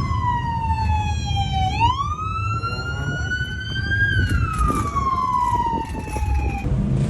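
Police car siren on a slow wail: the pitch falls, rises for about two seconds, then falls again and cuts off near the end. A steady low car-engine rumble runs underneath.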